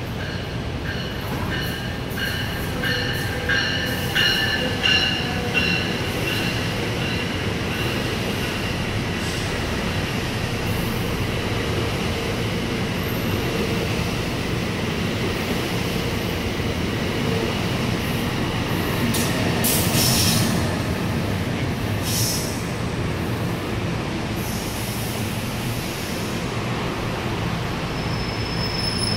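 NJ Transit multilevel passenger coaches running through the station, with a steady rumble of wheels on rail and some wheel squeal. A rapidly repeating high ringing sounds for the first several seconds, and a brief sharp hiss comes about twenty seconds in.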